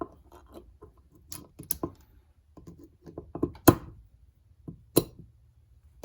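Small hand-tool work on a Honda TRX450R engine case: irregular clicking and scraping, with two sharp knocks about a second and a half apart in the middle, the first the loudest, as an over-driven seal is worked back out of the case.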